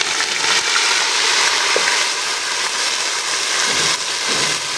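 Freshly added ground onion paste frying in hot ghee with whole spices in a large pot: a loud, steady sizzle.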